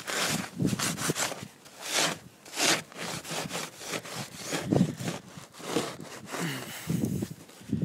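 Repeated scraping and brushing strokes clearing snow and ice off a car's body. The strokes are uneven, about one or two a second.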